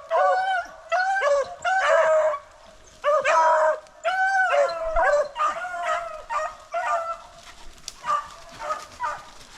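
A pack of beagles baying on a rabbit's track: many short, overlapping barks and bawls at different pitches from several dogs, growing fainter near the end. It is the sound of hounds running a hot trail after one has picked the scent back up.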